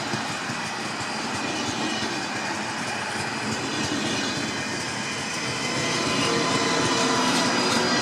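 Train running on the rails: a steady rolling rumble with faint high wheel-squeal tones, growing a little louder toward the end.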